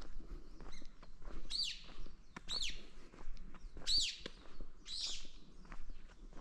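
A bird calling four times, short loud notes that each rise and then fall, about a second apart, over footsteps crunching steadily on a forest path.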